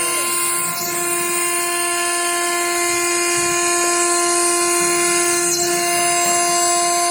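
Stone CNC router's spindle running at speed, a steady high-pitched whine that holds one pitch throughout, over a hiss.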